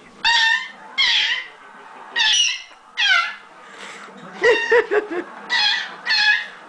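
Pet parrot screeching over and over: about seven loud, shrill calls, each shorter than half a second, several of them falling in pitch, with a quick burst of shorter notes in the middle.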